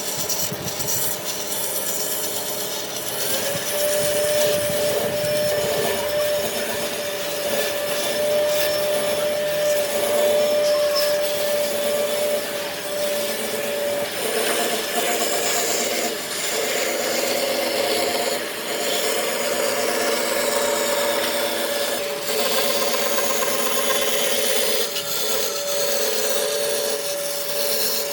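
A tool cutting and shaping wood: continuous rough rasping and scraping on wood, with a steady hum underneath from about four seconds in.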